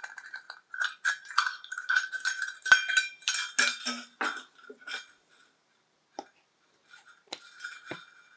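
Metal tablespoon clinking against a ringing dish, with rapid irregular clinks for about five seconds, then a pause and a few scattered clinks near the end.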